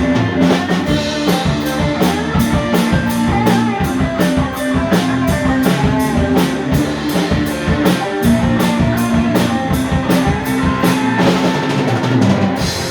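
Live rock band playing an instrumental passage: drums keeping a steady beat of about three strokes a second under guitar, bass and keyboards. The high drum strokes drop out briefly near the end.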